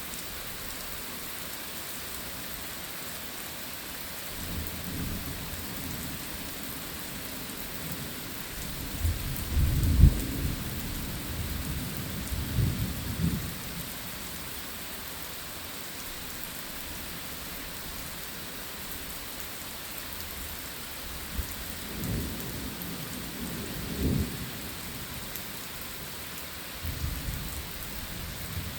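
Steady heavy rain with rolling thunder: a loud rumble about a third of the way in, and weaker rumbles later on.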